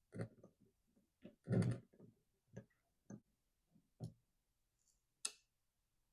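Small tools and carburetor parts clicking and knocking on a workbench while a bent choke plate is worked out of a chainsaw carburetor. Irregular light taps, with a louder knock about a second and a half in and a sharp click near the end.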